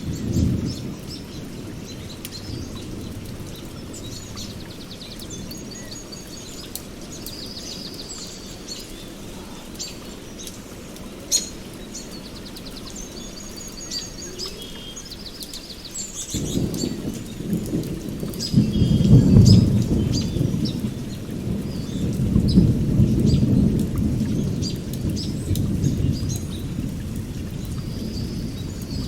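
Steady rain, with several songbirds chirping and trilling over it throughout. About halfway through, a low roll of thunder swells in, loudest a few seconds later, and rumbles on to the end.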